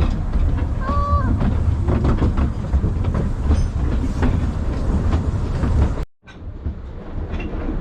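WW1-era steam train running, a steady low rumble with rapid clicking and clattering from the wheels and running gear. The sound cuts out for a moment about six seconds in.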